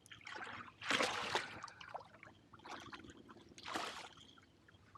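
Splashing water as a large channel catfish is hauled out of the water beside a kayak: a few short splashes, the loudest about a second in and another just before four seconds.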